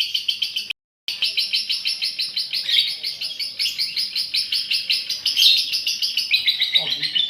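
Female lovebird's long, fast chattering trill (ngekek), repeating about ten notes a second without a pause for breath. It breaks off once in total silence about a second in, then picks straight up again.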